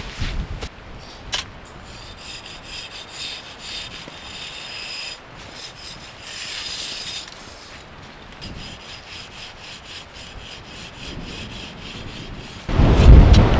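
Repeated crunching and scraping in snow, in many irregular short strokes. About a second before the end a sudden loud rumbling burst sets in and stays to the close.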